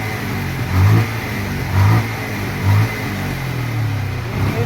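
Bajaj Pulsar 150's single-cylinder four-stroke engine running and revved in three short throttle blips about a second apart, then running more steadily. The water in the carburettor that caused its misfire has just been drained.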